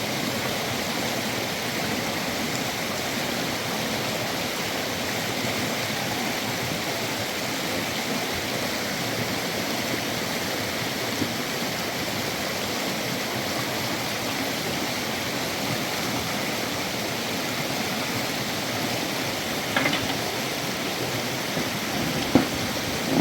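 Fast-flowing river water rushing steadily, with a few light knocks in the second half, the sharpest near the end.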